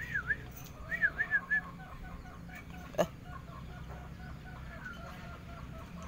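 Bird calls: a few sharp up-and-down chirps in the first second and a half, then a run of short, evenly repeated call notes. There is a single click about three seconds in.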